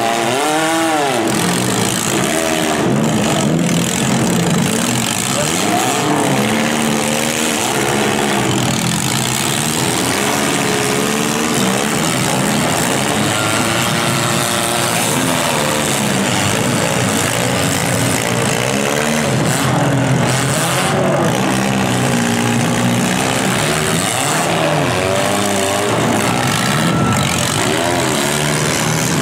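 Several demolition derby cars' engines revving hard at once, their pitch rising and falling over and over as the cars accelerate and back off between hits.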